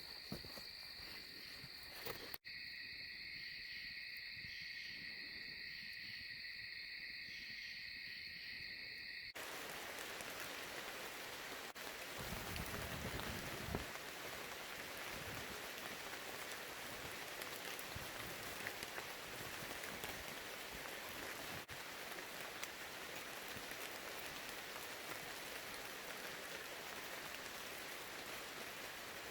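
Insects trilling steadily in high, slightly pulsing tones. About nine seconds in this cuts to steady rain falling, which continues to the end.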